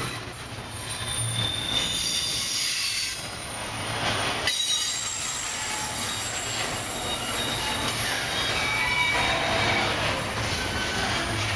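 Double-stack container well cars of a freight train rolling past: steady wheel-on-rail noise with intermittent high-pitched wheel squeal.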